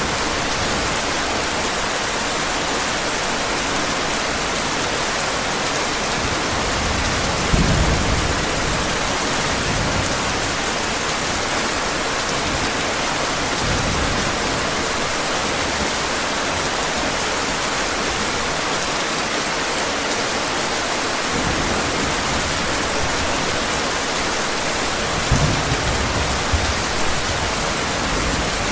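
Steady heavy rain, with low rolls of thunder about a quarter of the way in and again near the end.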